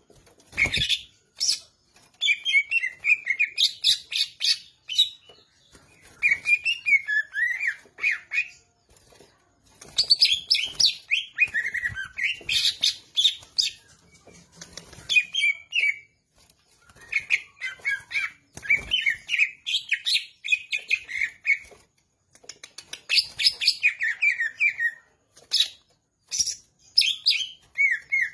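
Cucak ijo (leafbird) singing energetically: bouts of a few seconds of rapid chirps, warbles and sharp high notes, with short pauses between them. There are a couple of brief knocks or thumps, about half a second in and around two-thirds of the way through.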